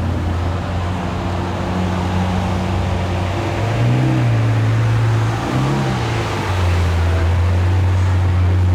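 Supercar engine running at low speed with a steady low note, given two brief blips of revs around the middle that raise the pitch and then fall back.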